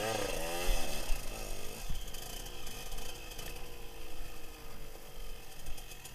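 KTM dirt bike engine revving up and down for the first couple of seconds, then running at a steadier, slowly falling pitch, heard from the rider's helmet camera.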